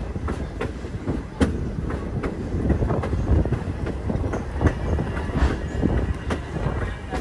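Passenger train cars rolling along the track: a steady low rumble with irregular clicks and knocks from the wheels.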